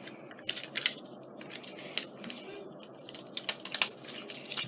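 Small clicks and rustles of scrapbooking supplies being handled on a craft table, with a quick cluster of sharper clicks about three and a half seconds in.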